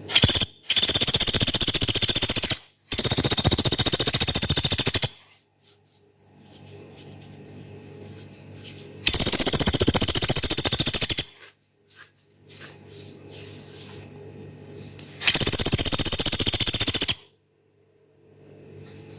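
Pelatuk beras, a small pygmy woodpecker, giving long, harsh, very fast rattling calls: one brief burst and then four rattles of about two seconds each, with pauses between.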